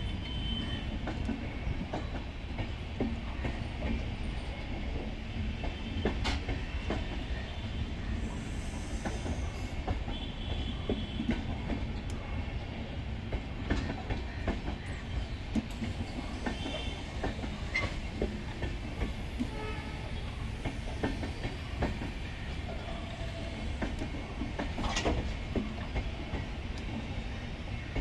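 Indian Railways passenger coaches rolling slowly backward along the track: a steady low rumble with irregular clicks and knocks from the wheels over the rails, and a few short high wheel squeals.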